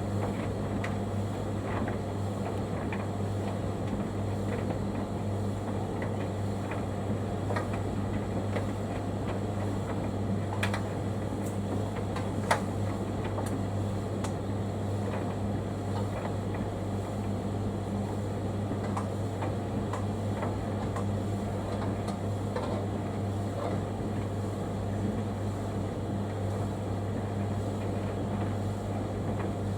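Bosch tumble dryer running steadily on a timed warm drying cycle: a constant low motor hum, with faint scattered clicks and one sharper tick about twelve seconds in.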